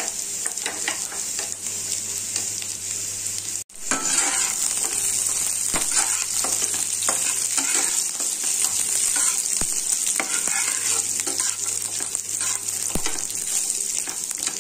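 Raw peanuts and chopped onions sizzling in hot mustard oil in a frying pan, with a metal spatula scraping and stirring them around. The sizzle is steady; after a brief break just before four seconds the stirring scrapes come thick and fast, with a few sharp taps of the spatula on the pan.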